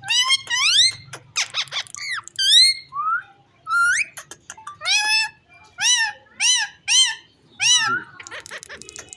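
Indian ringneck parrot (rose-ringed parakeet) giving a series of short, high-pitched calls, each bending up and down or sliding upward in pitch, a couple a second with brief pauses between.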